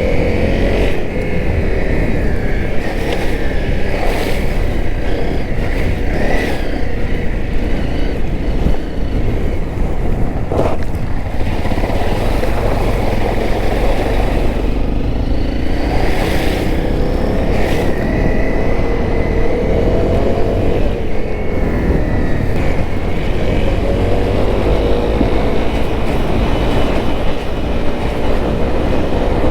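Honda CRF250L single-cylinder engine running under way, its pitch rising and falling with the throttle over a heavy steady low rumble, with a few sharp knocks.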